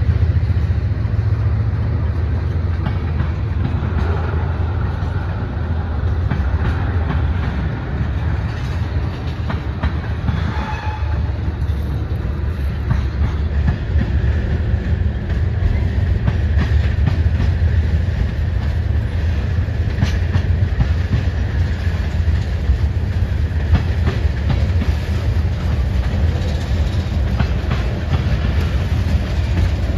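Tank cars of a long Norfolk Southern freight train rolling past: a steady low rumble with the clickety-clack of wheels over the rail joints.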